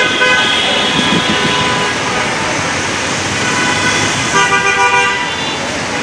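Busy road traffic with a vehicle horn honking twice: once as the sound begins, for about half a second, and again near the end, for under a second.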